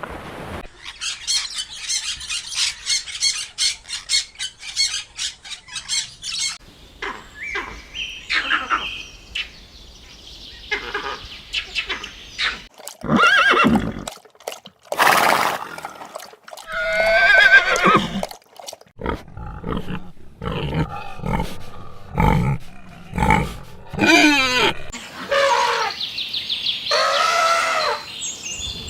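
A string of different animal calls: a rapid, high chirping trill for the first six seconds or so, then a series of separate cries and calls of varying pitch and length.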